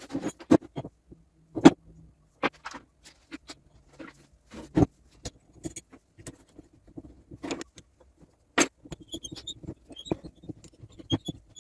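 Irregular clicks, taps and light metallic knocks of espresso machine parts and tools being handled during reassembly, with a few sharper knocks among them.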